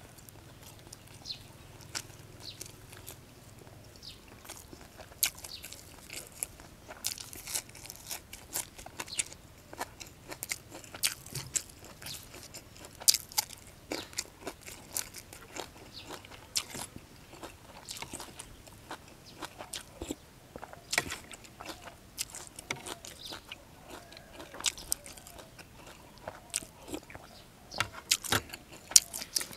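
Close-miked chewing, with many irregular crunches and mouth clicks, of a person eating sticky rice and fish laab with fresh leaves.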